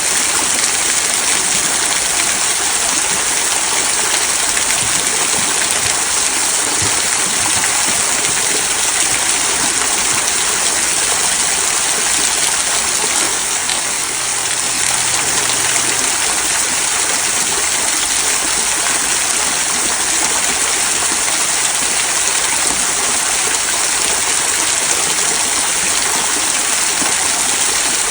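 Small waterfall trickling and splashing over rocks into a stream, a steady hiss of running water.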